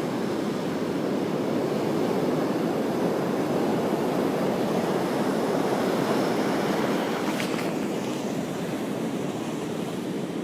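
Heavy surf whipped up by an approaching hurricane, waves breaking and washing ashore in a steady rush that swells a little a couple of seconds in and eases near the end.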